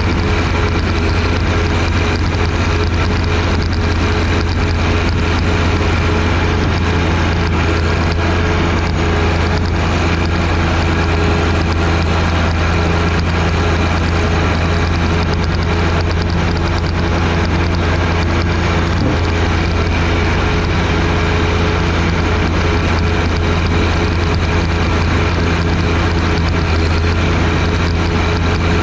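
John Deere 1025R tractor's three-cylinder diesel engine running steadily at constant speed, with the front-mounted snowblower working. A single faint knock about 19 seconds in.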